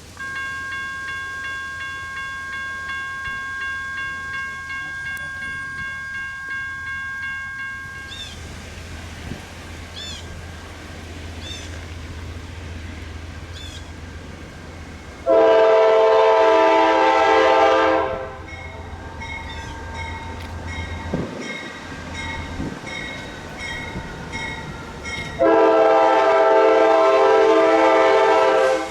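Norfolk Southern freight locomotive (AC44C6M) sounding its horn in two long, loud chord blasts, about fifteen and twenty-five seconds in, over the low rumble of the passing train. A steady high ringing tone with a pulsing beat fills the first eight seconds.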